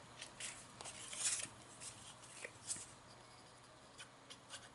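Faint rustling and rubbing of paper as small paper cards are handled and pressed down, in short scattered strokes, busiest in the first second and a half and again near the end.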